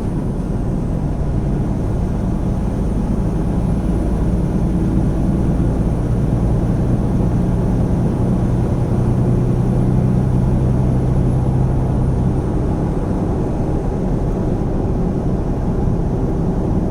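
Semi truck's diesel engine droning steadily, heard from inside the cab over road noise. A low hum grows stronger for a few seconds in the middle.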